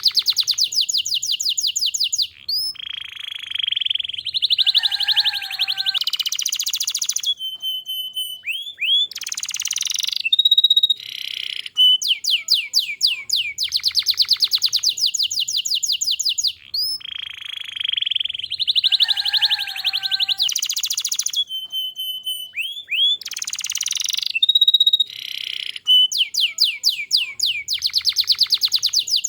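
Domestic canary in full song: fast rolling trills and rapid repeated notes alternating with short whistled phrases. The same passage of about 14 seconds is heard twice.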